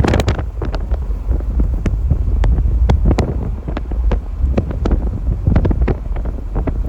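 Strong wind buffeting the microphone as a heavy low rumble, with irregular sharp taps and knocks scattered through it.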